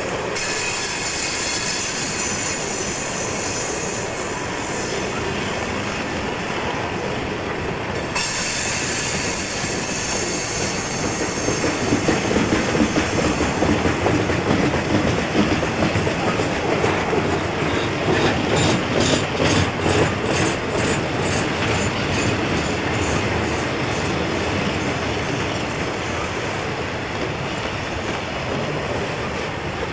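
Freight cars of a Santa Fe train rolling past, their steel wheels clicking rhythmically over the rail joints, several clicks a second, loudest in the middle stretch. A steady high-pitched squeal from the wheels runs above the rumble.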